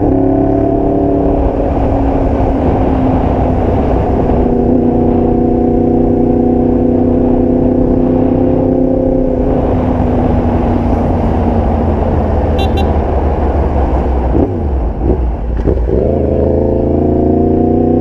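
Motorcycle engine under way, its pitch rising as it accelerates and then holding fairly steady. Near the end the pitch drops briefly and then climbs again.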